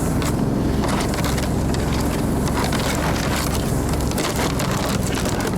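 Off-road vehicle's engine running steadily while under way, with frequent short rattles and knocks over a rushing noise.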